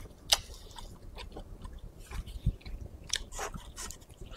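Close-miked biting and chewing of chewy, spicy shredded braised duck meat: a string of sharp wet mouth clicks, the loudest just after the start, with a soft low thud about two and a half seconds in.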